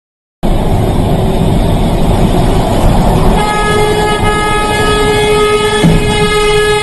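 Loud rumbling of a heavy vehicle on the move; about three seconds in, a steady vehicle horn starts blaring and is held.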